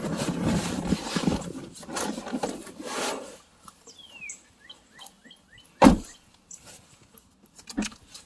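Rustling and handling noise from someone moving about a car, then a quieter stretch with a few short chirps, and a single sharp clunk about six seconds in, with a smaller knock near the end.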